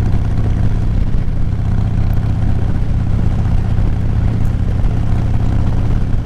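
Motorcycle engine running at a steady, unchanging speed, heard through a microphone inside the rider's helmet.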